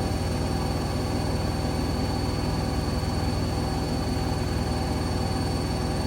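Hoover Link washing machine spinning at its top speed of 1400 rpm. It gives a steady low hum with steady high-pitched tones over it.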